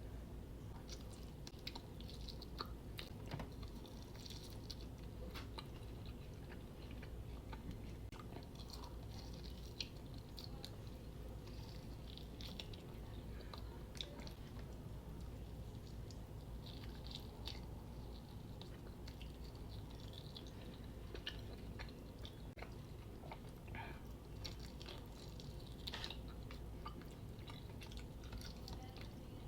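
Close-up chewing and biting into fried chicken wings: scattered wet chewing sounds with small crackles and crunches throughout.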